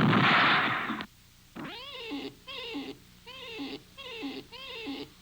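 Cartoon sound effects: a loud, noisy crash-like burst lasting about a second, then five short cat-like meowing cries in quick succession, each rising and falling in pitch.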